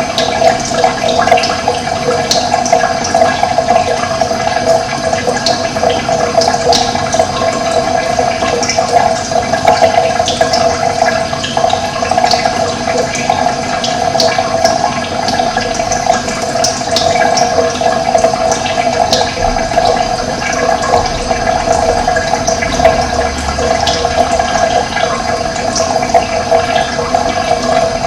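Steady rush of running water, with short, high bird chirps scattered throughout.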